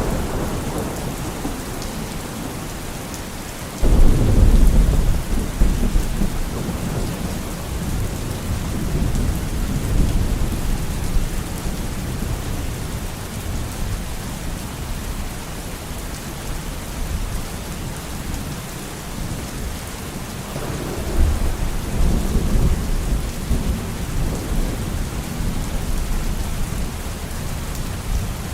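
Steady heavy rain with thunder: a loud deep thunderclap breaks in suddenly a few seconds in and rumbles away over several seconds, and a second, softer roll of thunder comes about two-thirds of the way through.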